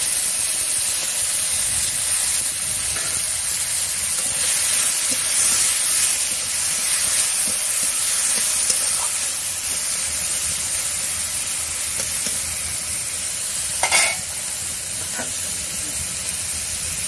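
Pumpkin sticks sizzling steadily as they fry in hot oil in an iron karahi, stirred with a spatula. A single sharp knock comes about fourteen seconds in.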